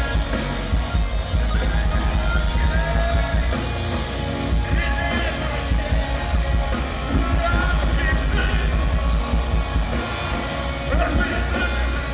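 Metalcore band playing live, loud and continuous: heavy distorted guitars, bass and drums.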